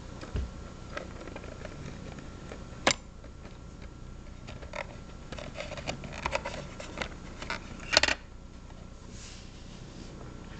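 Scattered clicks and handling noises from a tricorder prop being handled, with two sharp clicks, one about three seconds in and one about eight seconds in, and a busier run of small clicks between them.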